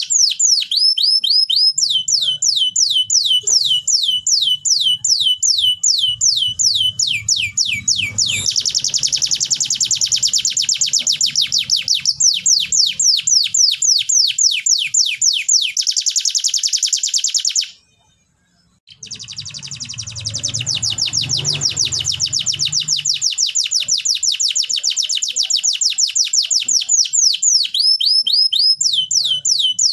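Canary singing long, fast trills of repeated downward-sweeping notes, with denser rolling passages. The song stops for about a second roughly two-thirds of the way through, then resumes.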